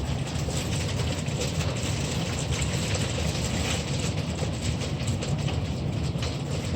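Heavy downpour mixed with hail: a steady rush of rain dense with rapid ticks of hailstones striking.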